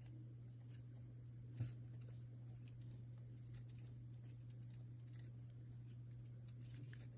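Near silence: a steady low hum with scattered faint ticks and one small click about one and a half seconds in.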